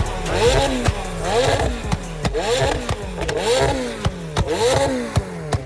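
Sports car engine revved over and over, its pitch rising and falling about once a second, with sharp cracks from the exhaust between the revs.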